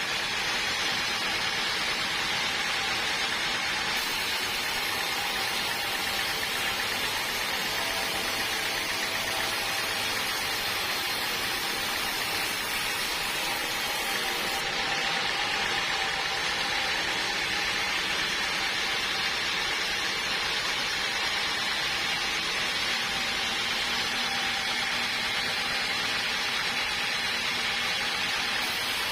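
Sawmill machinery running steadily, a constant even noise with a faint steady hum.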